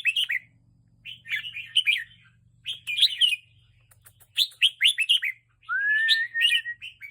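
Red-whiskered bulbul singing in bursts of quick chirpy phrases with short pauses between them. About six seconds in comes one long smooth whistle that rises and then holds steady.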